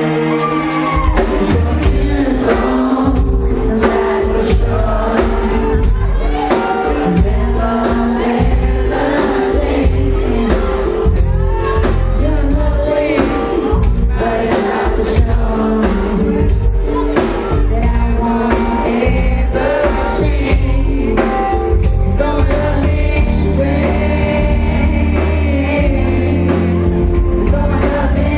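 Live pop band playing with singing: heavy bass and a steady drum beat under the vocal line, with the bass coming in about a second in.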